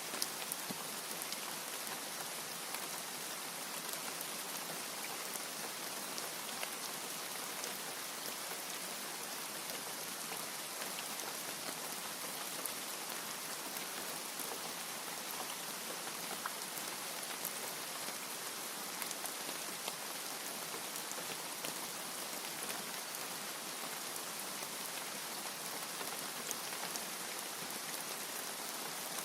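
Steady rain falling, an even hiss with scattered sharp ticks of individual drops striking a surface; no thunder.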